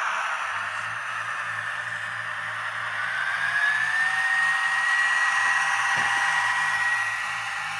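Minitrix N-scale model of a DB class 218 diesel locomotive with a digital sound decoder running: a high motor whine that dips in pitch and then climbs back about three seconds in, over a hiss of running gear, with the decoder's faint low diesel engine sound pulsing underneath. A single click about six seconds in.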